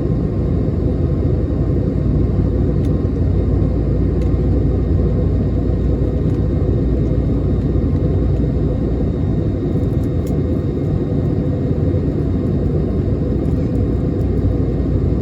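Steady cabin rumble of an Airbus A321neo in flight, engine and airflow noise heard from inside the passenger cabin, with a faint steady hum over it.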